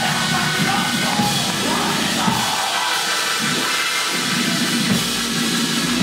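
Church band music with a drum kit, playing loud and steady.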